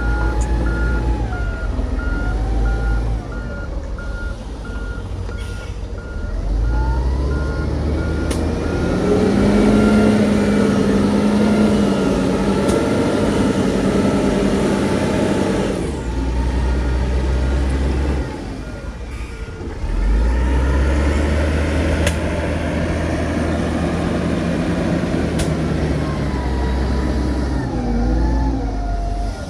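Heavy diesel earthmoving machinery at work: a big diesel engine revs up about six seconds in, runs hard, eases off around sixteen seconds and revs up again about twenty seconds in. A reversing alarm beeps steadily through much of it.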